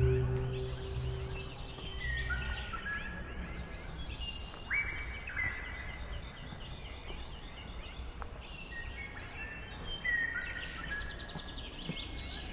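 Birds singing: several overlapping whistled phrases and trills over a steady outdoor background. A low held tone of music fades out over the first two seconds.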